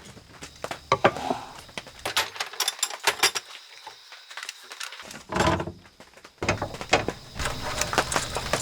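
Scattered knocks and clicks of things being handled and set down, with a quiet pause in the middle.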